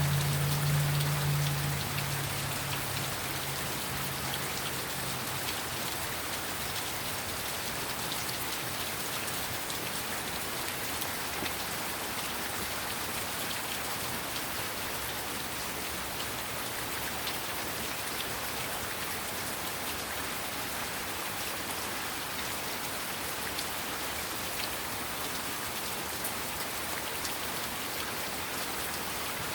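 Heavy rain falling steadily, a dense even hiss of drops hitting surfaces. A low rumble at the start fades away within the first few seconds.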